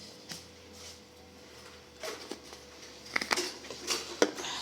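Scattered light clicks and knocks of a spoon and spice containers being handled while spice is added to a bowl of chicken, mostly in the second half.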